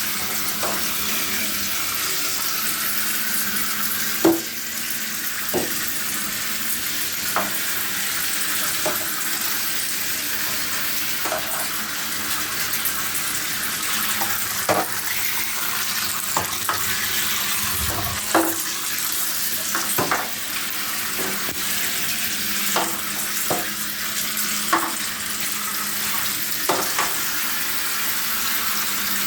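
Battery-powered Zuru Micro Boats toy boats running in water, their small propellers churning up a steady hiss over a faint motor hum. Sharp knocks come every few seconds.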